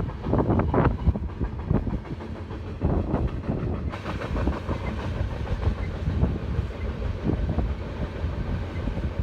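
Train rolling past: a steady low rumble from the wheels on the rails, with irregular knocks and clatter throughout.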